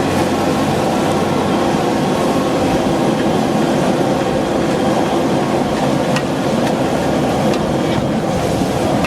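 Steady roar of a gas wok burner at a street-food noodle stall, with a few sharp clinks near the end.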